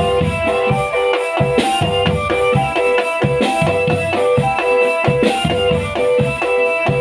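Drum band playing: marching drums with bass drum beats under a melody of held notes, with a bright crash about every two seconds.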